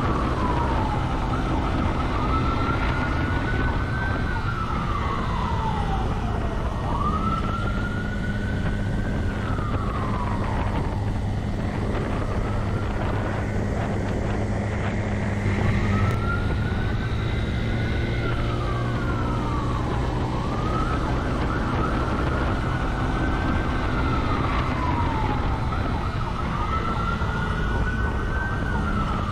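Police siren wailing in slow rising-and-falling sweeps, one about every four to five seconds, over the steady engine and road noise of the pursuing police vehicle.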